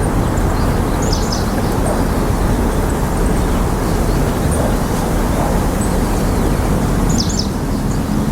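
Outdoor field recording dominated by a steady low rumble, like distant traffic, with two brief high-pitched bird chirps, one about a second in and one near the end.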